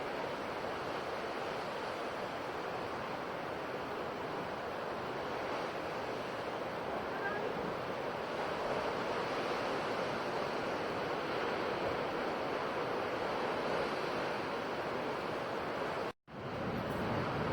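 Sea waves washing on the shore, a continuous rushing surf that swells a little toward the middle. About sixteen seconds in, it cuts out for a split second, like an edit splice, and then resumes.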